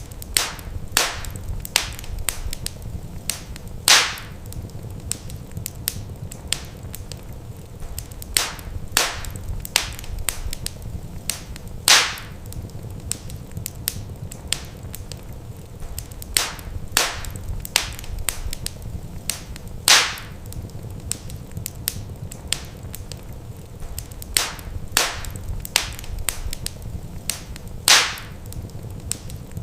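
Wood fire in a fireplace crackling, with many small sharp pops and a louder pop about every eight seconds, over a steady low rumble.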